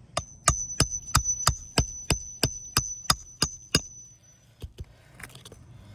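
Hammer tapping a steel roofing snake under asphalt shingles to break their seal: about a dozen sharp, evenly spaced strikes, about three a second, each with a high metallic ring, stopping a little over halfway through.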